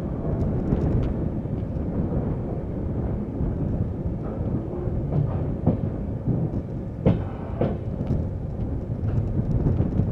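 Passenger train running on the track: a steady heavy rumble with scattered wheel clicks over rail joints, and a sharper double clatter about seven seconds in.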